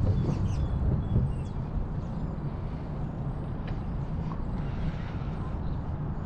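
Steady low rumble of city traffic and wind heard from a moving bicycle, with a few faint, brief high chirps in the first second or so.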